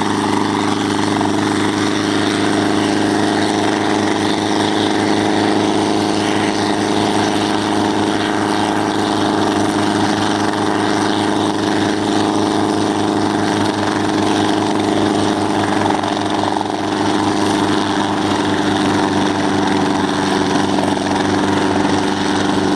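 Helicopter running steadily: an even engine and rotor drone with a fast, regular beat from the rotor blades.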